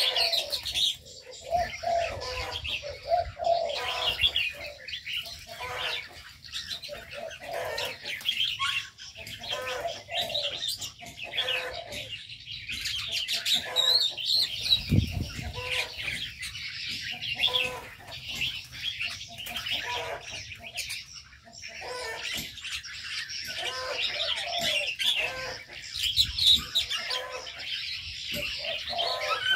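A flock of aviary birds chirping and twittering continuously, many high calls overlapping, with shorter lower calls repeating underneath.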